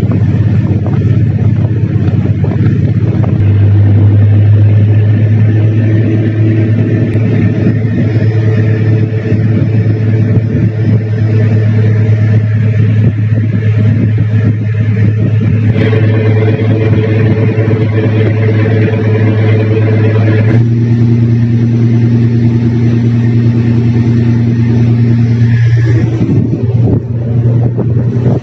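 Tug boat's diesel engine running hard at high rpm, a loud steady drone that grows louder about three seconds in and rises slightly in pitch around twenty seconds in. The engine is being run at high revs to blow soot out of the exhaust stack that had been giving off thick black smoke.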